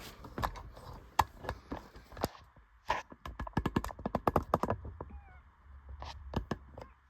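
Handling noise: a run of sharp clicks and knocks, thickest in a quick rattle about three to four and a half seconds in, as the camera and multimeter are moved about, with a faint brief squeak after it.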